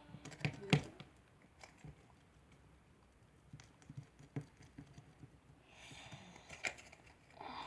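Scattered light clicks and taps of hands handling slime and its plastic containers, with a louder knock a little under a second in.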